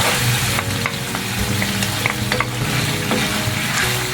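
Chili sauce and banana ketchup sizzling in a hot pan of margarine and garlic as they are stirred together, with a few light clicks of the utensil against the pan. A steady low hum runs underneath.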